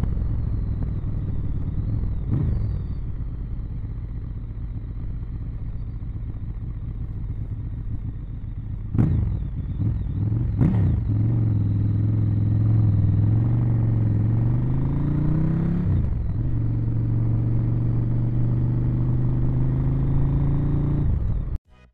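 Ducati Monster 1100 EVO's air-cooled L-twin running through its original exhaust while riding, a steady low engine beat. About nine and eleven seconds in come two sharp knocks. Later the engine note climbs for a couple of seconds, drops suddenly as if at a gear change, then holds steady.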